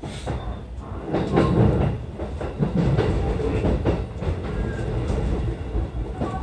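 E233 series electric commuter train running along the track, its wheels clicking over the rail joints under a steady low rumble.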